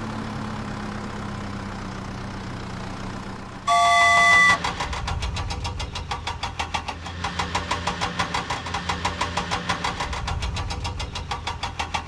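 Vehicle engine sound effects: a low steady engine hum, then a short loud horn-like tone about four seconds in, followed by a fast rhythmic engine chug of about four or five beats a second.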